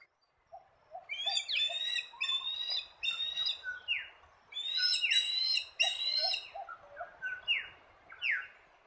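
Eastern osprey calling: a fast series of sharp whistled notes, many slurring downward, in two bouts, then a few single down-slurred whistles near the end.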